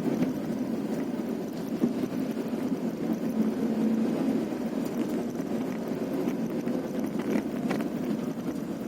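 Vehicle driving over a rough, potholed road: steady engine and road noise, with a few short knocks about two seconds in and again near the end.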